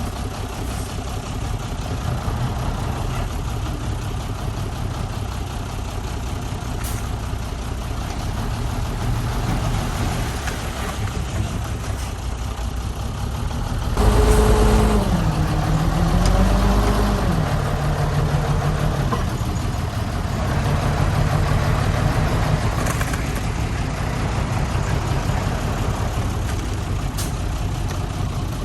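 Heavy diesel earthmoving machinery engines running steadily. About halfway through, one engine gets louder, its pitch dipping and rising before settling lower.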